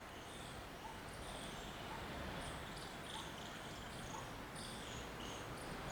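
Birds chirping: many short, high calls scattered irregularly over a steady background hiss.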